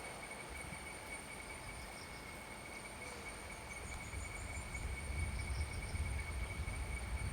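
Quiet outdoor ambience: a steady high-pitched whine from insects, a few faint high chirps, and a low wind rumble on the microphone that builds from about four seconds in.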